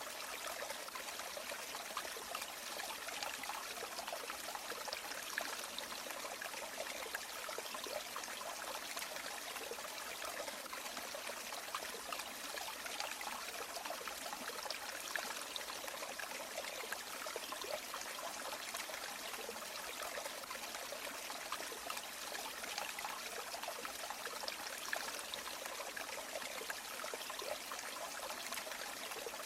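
A river's water running and trickling steadily, a bright even rush with small splashing flickers and no deep rumble.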